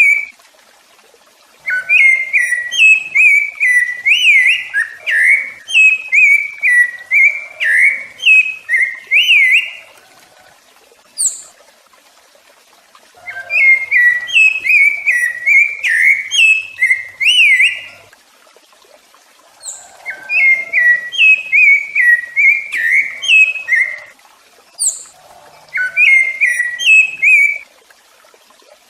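Rufous-bellied thrush (sabiá-laranjeira) singing: four phrases of quick, fluty, warbling notes, each a few seconds long, separated by pauses of a second or two, with a short high thin note in two of the gaps.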